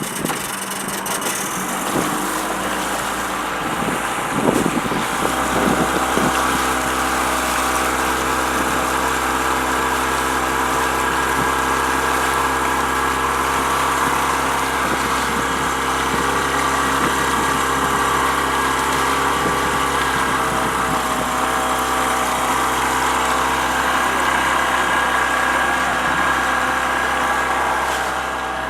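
A tour boat's motor running steadily, picking up a little about five seconds in as the boat travels along the channel.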